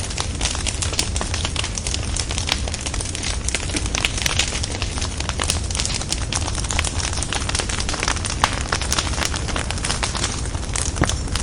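Bonfire burning: frequent sharp crackles and pops of burning logs over a steady low rumble.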